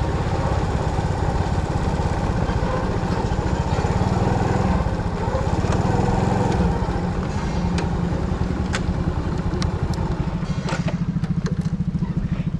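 Motorcycle engine running steadily, with a fast even pulse. A few sharp clicks come through between about eight and eleven seconds in.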